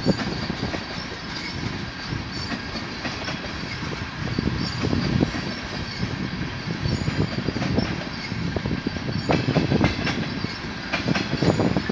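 Tank cars of a CN freight train rolling past, steel wheels rumbling on the rails with clusters of sharp clicks in the last few seconds.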